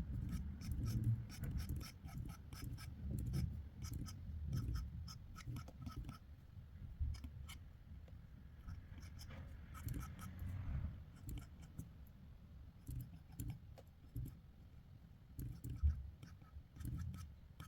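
Quick sketching strokes on paper: many short scratches and ticks of the drawing tool over low dull rubbing, busier in the first half.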